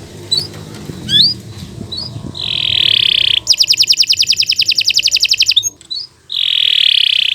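Domestic canary singing: a few short rising chirps, then a buzzy held note, a fast trill of about ten notes a second lasting a couple of seconds, a brief pause, and another buzzy held note.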